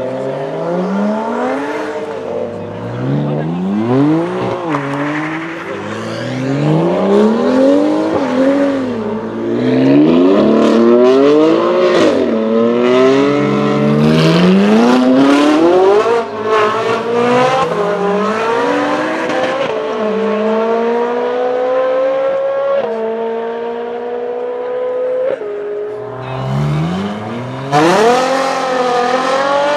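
Sports cars accelerating away hard at full throttle one after another, each engine's note climbing in pitch and dropping back at the upshifts, with sharp cracks in the middle. Near the end a Ferrari F12 Berlinetta's V12 launches with a fast rise in pitch.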